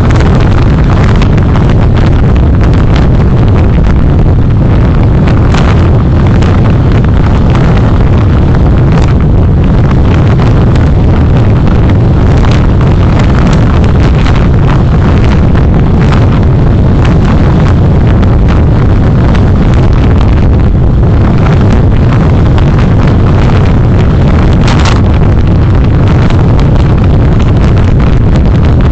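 Loud, steady wind and road rumble on a vehicle-mounted recorder's microphone while driving, with frequent short crackles and one brief louder gust near the end.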